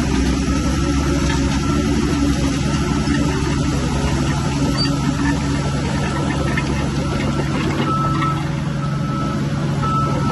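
Heavy earthmoving machinery's diesel engine running steadily under load, with faint scattered clanks. From about eight seconds in, a reversing alarm beeps about once a second.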